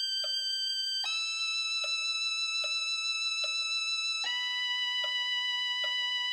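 B minor scale practice track: long held single notes stepping down in pitch, a new note about a second in and again about four seconds in, over steady metronome clicks about every 0.8 seconds.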